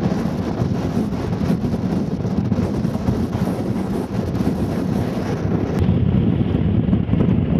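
Strong wind blowing across the microphone, a loud, steady low rumble.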